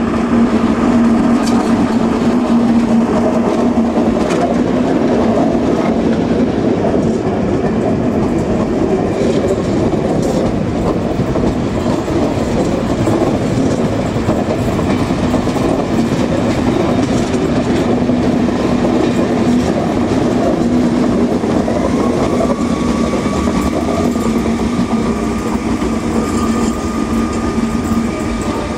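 Class 73 locomotive-hauled test train passing at low speed, its wheels clattering over the rail joints and points with a steady hum. A higher steady whine joins about three-quarters of the way through.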